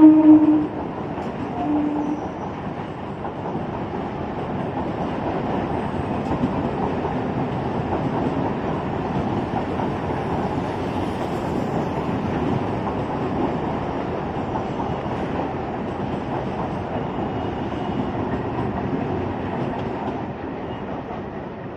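Electric multiple-unit (EMU) suburban local train running past: a steady rumble and clatter of wheels on rail, with some clickety-clack. A horn note cuts off just at the start, and a short horn toot sounds about two seconds in.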